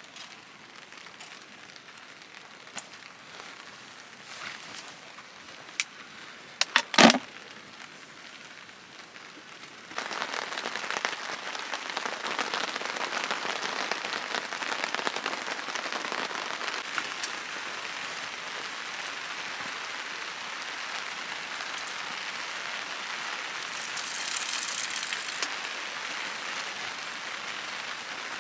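Steady rain, a noisy hiss that gets suddenly louder about ten seconds in. Before that it is quieter, with scattered sharp clicks and a brief loud rattle about seven seconds in.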